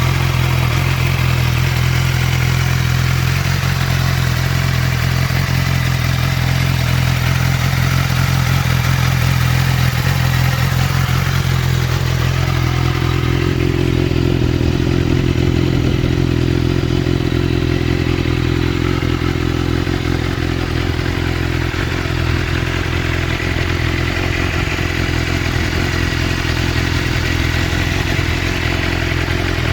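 Motorcycle engine idling steadily, with a higher hum joining in about twelve seconds in.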